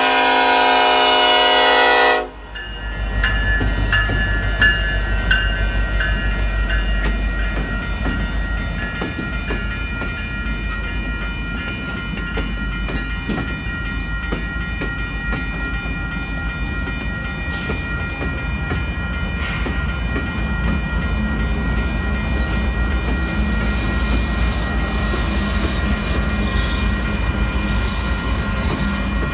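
Diesel freight locomotive horn sounding a loud multi-note chord that cuts off about two seconds in. Then the lead locomotives roll through the grade crossing with a deep engine rumble and wheels clicking over the rails, under steady ringing tones from the crossing.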